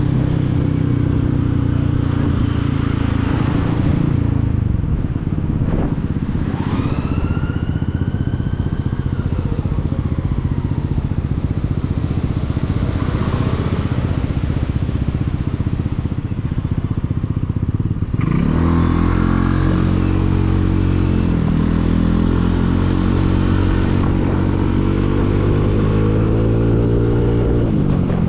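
Motorcycle engine heard from the rider's seat: it slows a few seconds in and runs low and steady, then from about two-thirds of the way through it accelerates, its pitch climbing and dropping back with each upshift. A fainter higher whine rises and falls briefly early on.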